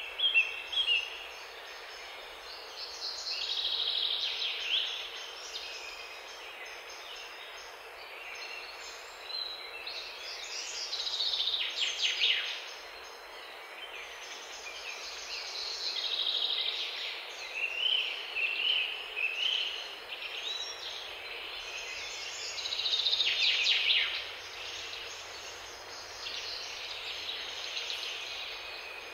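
A songbird singing short, warbling phrases every few seconds, over a steady background hiss.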